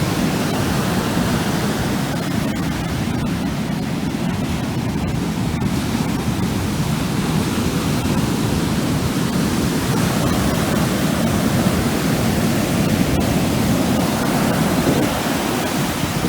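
Storm-driven ocean surf breaking on the beach: a steady, loud roar of waves with no let-up.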